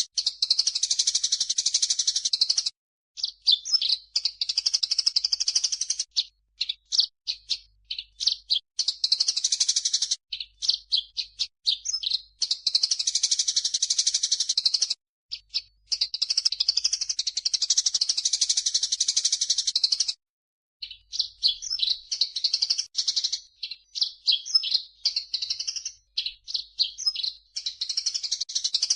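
Recorded songbird calls from a mix of cucak jenggot (grey-cheeked bulbul) and burung gereja (Eurasian tree sparrow). The calls are high-pitched, fast chattering in stretches of several seconds, broken by short pauses and runs of separate sharp chirps.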